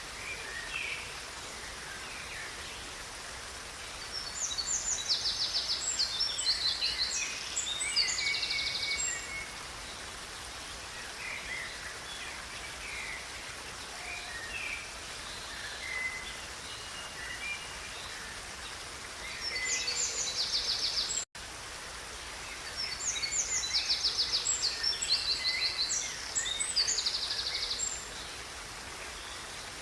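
A river flowing steadily under songbirds singing: two long phrases of fast, high trilled notes, one about four seconds in and one about two-thirds through, with scattered shorter chirps between. The sound drops out for an instant just before the second phrase.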